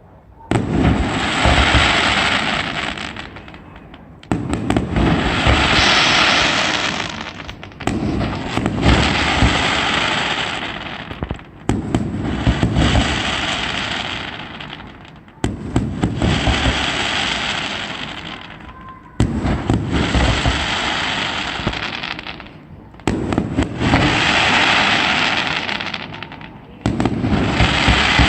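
Fireworks display: eight bursts at a steady pace of about one every four seconds, each starting with a sudden bang and tailing off over about three seconds.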